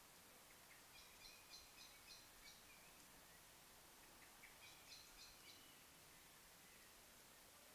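Faint bird song: two short phrases of evenly repeated notes, the first about a second in and the second about four and a half seconds in, over a steady hiss.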